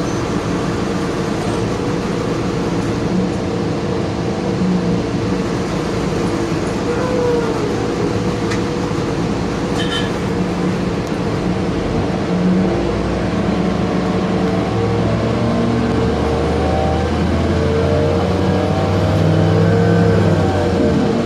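Interior of an Orion VII CNG transit bus with its HVAC running: a steady drone of the air-conditioning and engine with several held tones. About halfway through the low engine rumble grows stronger and shifts in pitch, as the bus gets under way.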